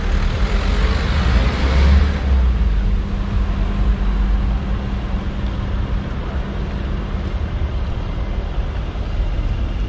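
Mercedes-AMG S63 cabriolet's V8 engine idling with a steady low rumble, with a louder rush of noise in the first couple of seconds.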